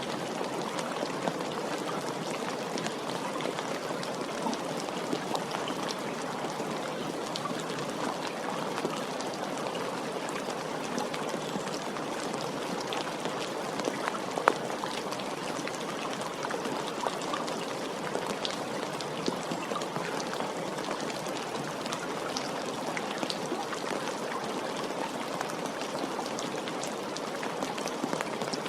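Steady rain falling, an even hiss with scattered individual drops ticking on a surface, one drop a little louder about midway.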